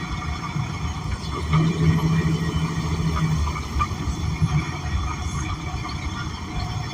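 Inside a Gillig BRT Plus city bus under way: steady low rumble from its Cummins Westport ISL G natural-gas engine and the road. A steady hum comes in about a second and a half in and lasts about two seconds.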